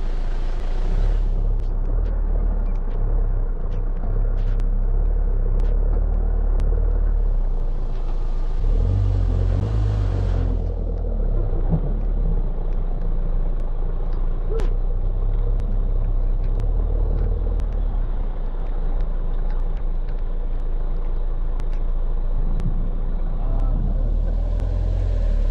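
A 4x4 van's engine running at low speed with a steady low rumble while the vehicle creeps along, with scattered sharp taps over it.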